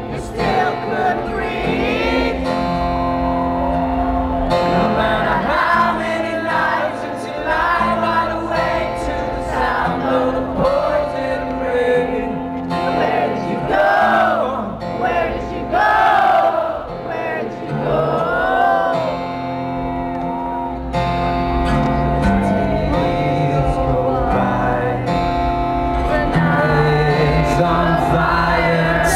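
Live rock band performance: a male voice singing over held keyboard chords and sustained low notes.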